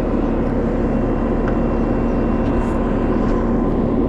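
Bobcat skid steer engine idling steadily, with a faint click about a second and a half in.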